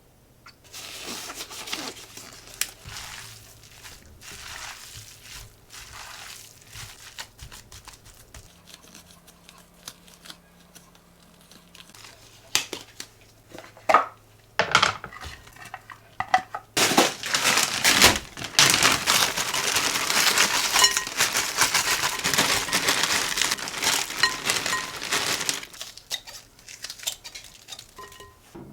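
Kitchen handling sounds: dishes and utensils scraping and clinking, and packaging crinkling and tearing. Near the middle the rustling becomes louder and denser for about ten seconds, then dies away near the end.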